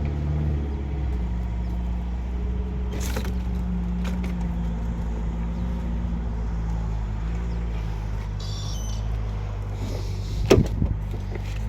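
Steady low mechanical hum of a running motor, with a faint click about three seconds in and a sharper knock near the end.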